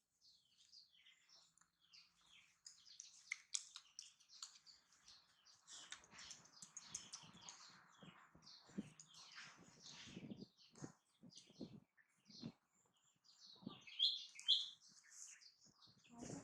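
Soft, quick smacking and chewing clicks from a baby animal lip-smacking while eating a snack, with many short high chirps throughout; two louder chirps come near the end.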